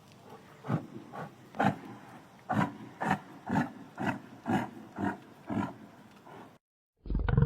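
An animal calling in a series of about eleven short calls, roughly two a second; after a brief break, a different loud, steady call starts near the end.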